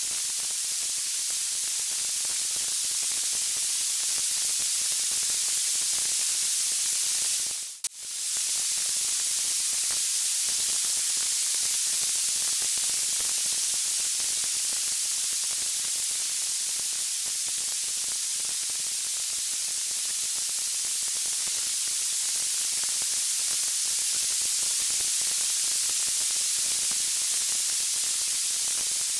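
Steady bright hiss of sleep-noise ambience meant as a log fire, an even white-noise rush strongest in the highs. It dips out and comes straight back about eight seconds in.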